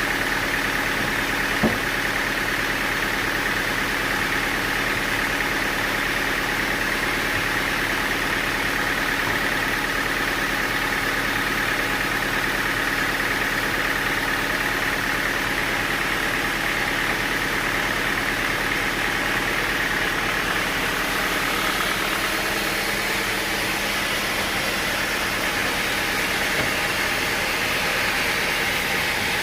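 Sawmill machinery running steadily: a constant mechanical drone with fixed tones and no change in load, and one sharp tick about two seconds in.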